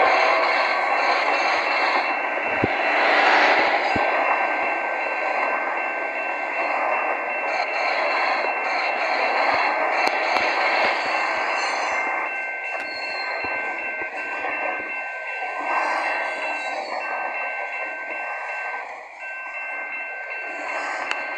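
A freight train rolling past, the steady rush of its wagons on the rails, with a thin high-pitched whine running through it.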